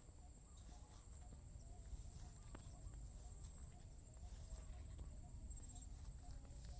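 Faint countryside insects trilling in one steady, high-pitched tone, with a soft low chirp repeating about twice a second and a few faint clicks.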